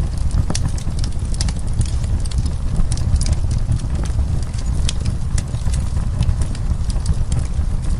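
Burning wood crackling and popping: many sharp, irregular snaps over a steady low rumble of the fire.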